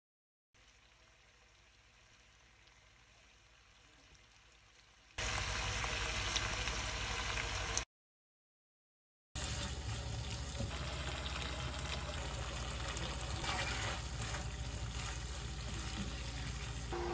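Chicken and green chilies sizzling and frying in a nonstick wok, stirred with a spatula that adds a few scraping ticks. The frying is faint at first and much louder from about five seconds in, with a short silent break partway through.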